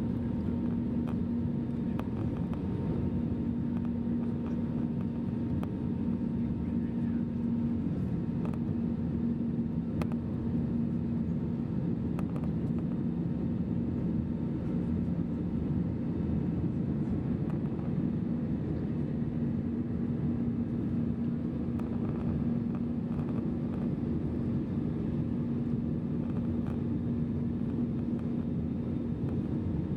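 Steady cabin noise inside an Airbus A320 during its climb: engines and airflow, with a low steady hum that fades for about ten seconds midway and then comes back.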